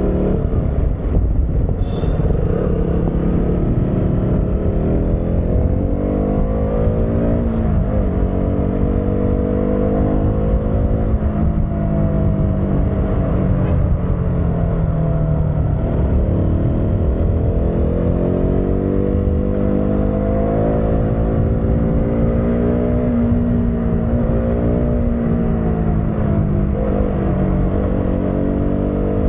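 Motorcycle engine running under way, its note rising and falling as the throttle opens and closes and the gears change, over a steady low rumble.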